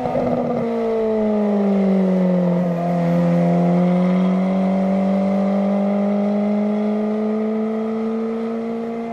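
Ferrari F430's V8 howling through a Kreissieg valvetronic exhaust. The note is rough for the first half second, drops in pitch over the next two seconds, then climbs slowly and steadily.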